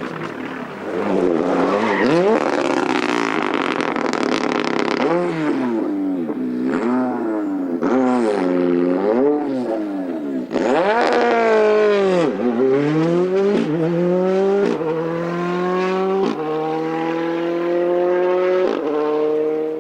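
Rally car engine at full effort: revs swing up and down hard as the car brakes and changes down through corners, then dip low about twelve seconds in and climb again through three or four upshifts, each gear pulling higher before the next change.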